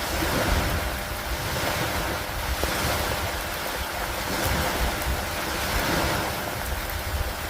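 Steady rain and wind in a thunderstorm, a continuous hiss that swells and eases every couple of seconds over an unsteady low rumble.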